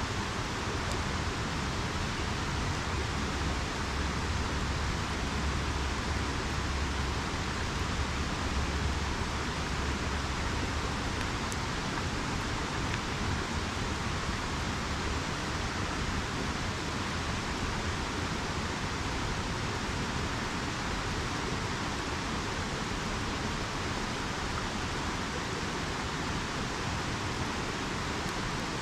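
River water rushing steadily, an even hiss with no let-up. A low rumble swells underneath for several seconds in the first third.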